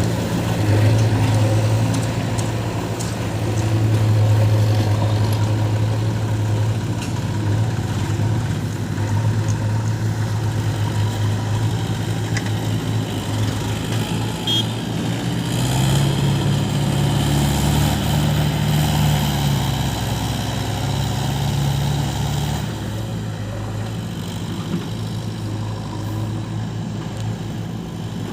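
Diesel engines of a JCB 3DX backhoe loader and a Mahindra 475 DI tractor running steadily at a low note. A second, deeper engine sound joins past the middle for several seconds, then drops away.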